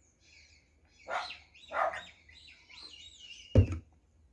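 Small birds chirping and twittering in the background, quick gliding calls that grow busier past the middle. A single sharp thump near the end.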